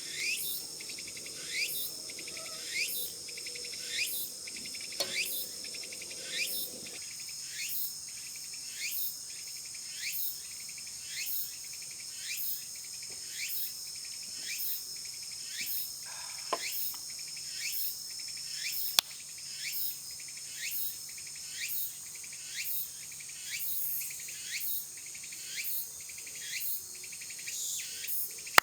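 Insects calling: a steady high-pitched trill under a chirp that repeats about once a second, each chirp falling in pitch. A single sharp click about two-thirds of the way through.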